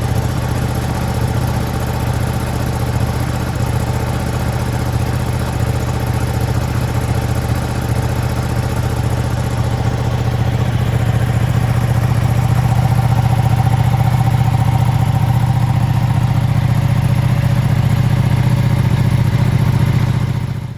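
Ducati Streetfighter V2's Superquadro twin-cylinder engine idling steadily while it warms up after a cold start. It grows a little louder about halfway through, then holds steady, and stops abruptly at the very end.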